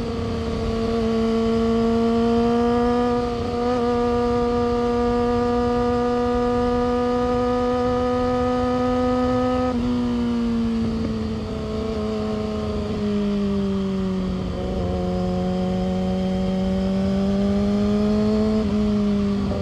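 Yamaha R6's 600 cc inline-four engine and exhaust running under way at a steady high pitch, with a low rushing noise underneath. About halfway through the engine note drops suddenly, eases lower still, then rises slightly near the end.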